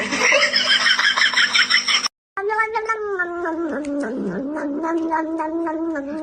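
A cat yowling: one long, wavering, drawn-out cry lasting about four seconds. It comes after a brief, busier sound that cuts off abruptly about two seconds in.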